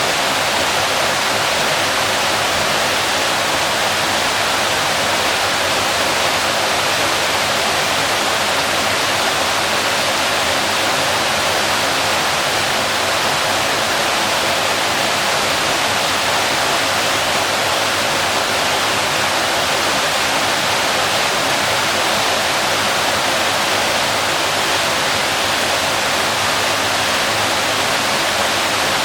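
Waterfall: a steady rush of falling water, loud and unchanging.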